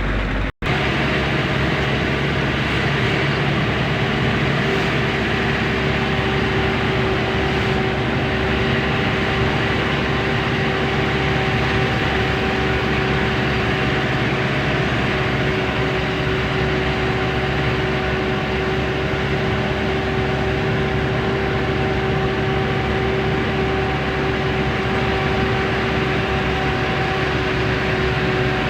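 Truck running on the road: steady engine and road noise with a constant whining hum over it. The sound cuts out for a split second just after the start.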